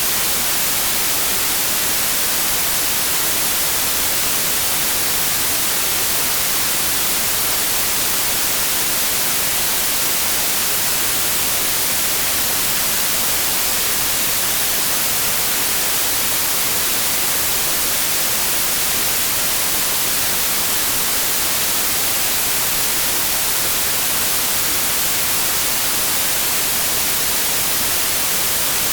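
Synthetic white noise: a steady, even hiss, brightest in the treble, with no change over time.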